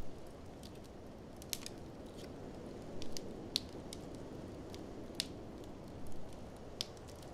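Wood fire crackling, with scattered sharp pops, over a steady low rush of blizzard wind.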